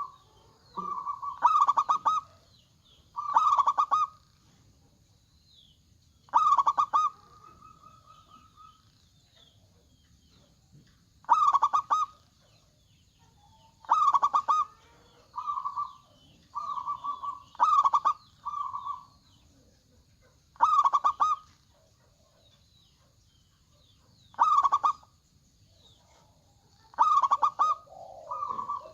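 Zebra dove cooing: loud, stuttering ringing phrases repeated every few seconds, sometimes two or three in quick succession.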